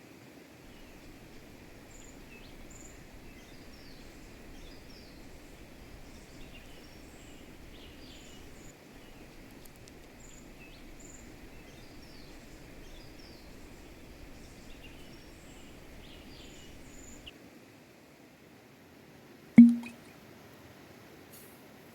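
Small birds chirping repeatedly over a steady rushing background noise. The rushing drops away a few seconds before the end, and then comes a single sharp, loud knock.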